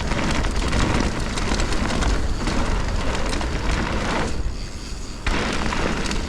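Mountain bike riding fast down a dirt trail: continuous wind rush on the microphone with rumbling tyre and trail noise. The rush eases for about a second shortly before the end, then returns.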